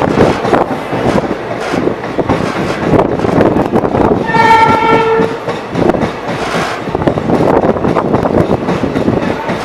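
Indian Railways train running at speed, its wheels clattering steadily over the rail joints, with a locomotive horn sounding once for about a second midway.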